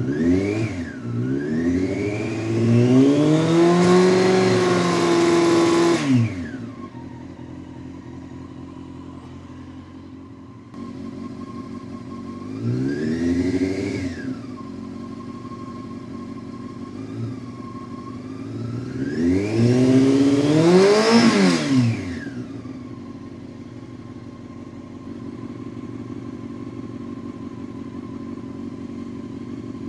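Honda CBR600F4i inline-four engine idling and revved three times: a climb held high for a few seconds at the start, a short blip near the middle, and another rev about two-thirds through, each dropping back to a steady idle. The revs are raised to about 5,000 rpm to check the battery charging voltage.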